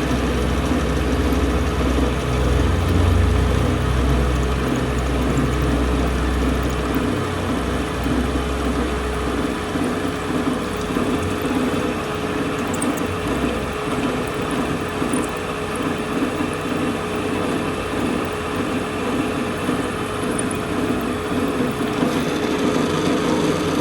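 Workshop machinery running steadily with a constant hum. A deeper rumble underneath drops away about ten seconds in.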